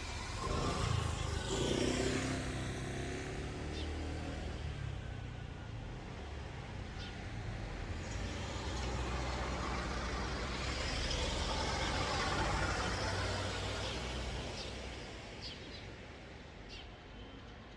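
Motor vehicle traffic: engine and road rumble that swells twice as vehicles pass and then fades away.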